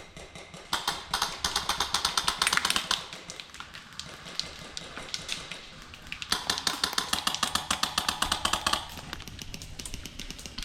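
Airsoft guns firing two long full-auto bursts, each a rapid string of clicks lasting about two seconds. The first starts about a second in and the second comes past the middle.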